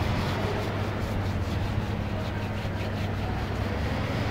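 Steady low machine hum of running industrial machinery, with an even noise over it.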